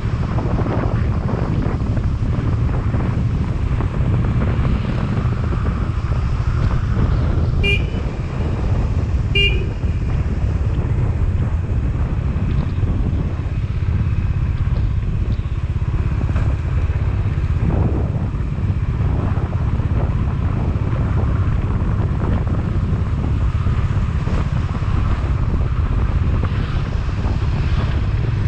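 Motorcycle on the move, a steady low rumble of engine and road. About eight seconds in, a horn gives two short beeps about a second and a half apart.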